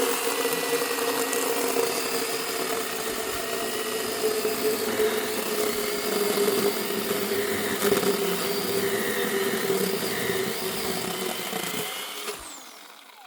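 A motor running steadily at one speed, its pitch sagging slightly, then fading out about twelve seconds in.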